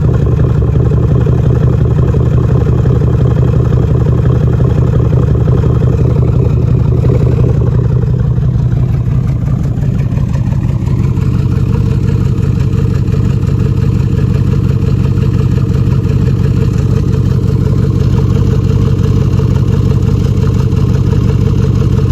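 2013 Jeep Grand Cherokee engine running with an uneven, pulsing exhaust note from a misfire on cylinder 5, the sign of a bad lifter and camshaft on the left bank. The sound changes a little about nine seconds in, then carries on steadily.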